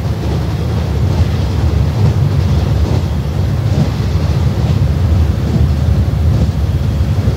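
Interior running noise of a 165 series electric train: a steady low rumble of the wheels and bogies on the track, with faint higher clicks about once a second.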